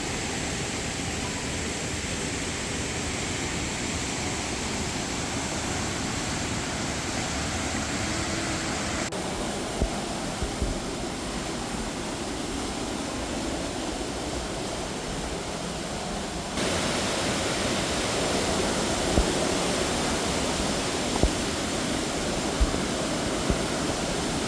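Rushing water of a waterfall, a steady hiss. About nine seconds in its tone changes suddenly, and after about sixteen seconds it jumps louder, with a few short low thumps.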